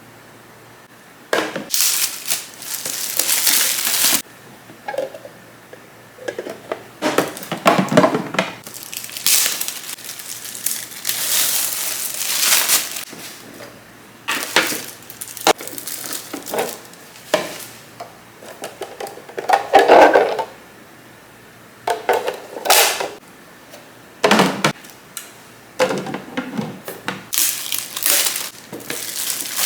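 Plastic fridge containers and their packaging being handled: irregular bursts of crinkling and rustling with light plastic clatter and knocks.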